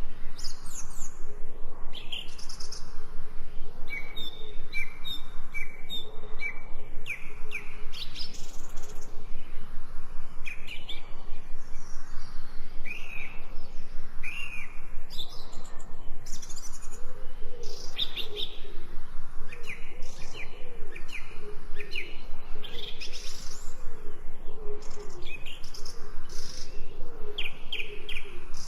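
Several wild birds chirping and calling: short repeated chirps and quick sweeping whistles throughout, with lower warbling calls joining from about two-thirds of the way in, over a steady rapid pulsing in the background.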